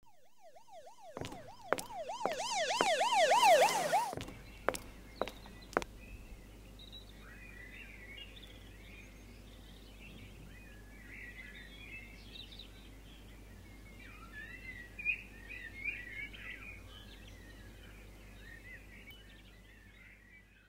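A siren-like warbling tone, swinging up and down several times a second and growing louder, breaks off after about four seconds into a few sharp clicks. Then birds chirp in scattered bursts over a low steady hum.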